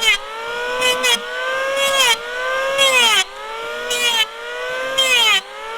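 Power tool cutting wood in repeated strokes, about once a second: the motor's whine drops in pitch under each cut, with a hiss of cutting, and then recovers.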